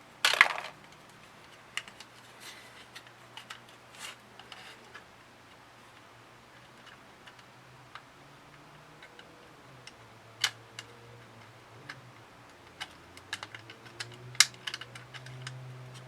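Scattered light clicks and taps, with a short louder scrape or rustle about half a second in and a few sharper clicks near the end.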